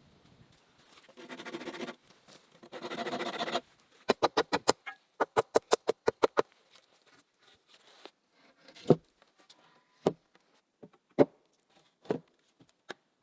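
Two short scraping noises, then two quick runs of sharp, evenly spaced knocks at about eight a second, followed by a handful of single knocks about a second apart.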